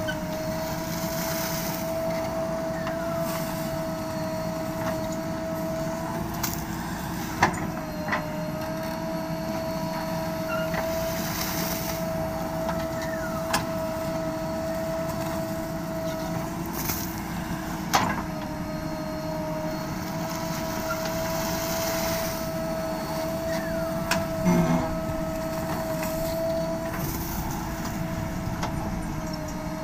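JCB 3DX backhoe loader's diesel engine running under load with a steady high whine, while it digs river sand. A few sharp metallic knocks from the bucket and arm come through, and a heavier clunk near the end.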